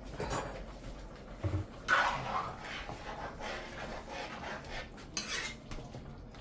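Metal utensils clinking and scraping against a cooking pot in irregular knocks and short scrapes, the loudest about two seconds in and again just after five seconds.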